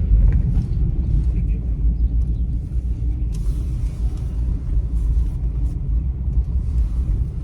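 A car's engine running, heard from inside the cabin as a steady low rumble.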